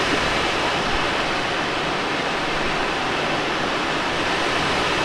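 Steady rush of airflow over a Let L-13 Blaník glider in flight, an even hiss heard from inside the cockpit with no engine.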